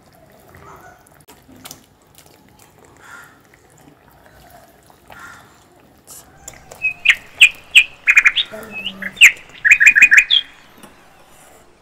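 A small bird chirping: a series of short, sharp, high chirps starting a little past halfway and coming in a quick run near the end. Before that there are only faint soft sounds.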